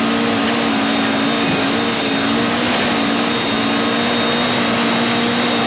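1988 Volkswagen Golf GTI rally car's four-cylinder engine held at steady high revs while flat out on a straight, heard from inside the cabin, with gravel road noise underneath.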